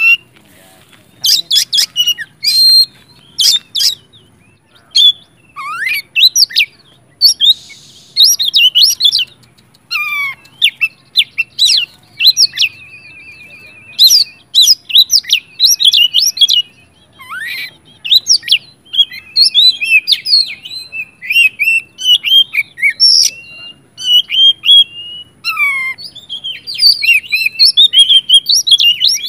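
Oriental magpie-robin singing without letup in rapid, varied phrases of whistles and chirps. It includes sharp downward-sliding notes and a couple of buzzy rattling trills, broken only by brief pauses.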